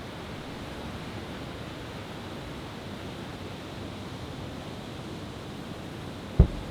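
Steady rushing background noise, then a single sharp firework boom about six and a half seconds in that dies away quickly.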